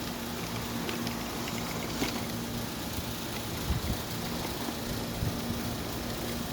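A steady motor hum holding one pitch, with a few light knocks.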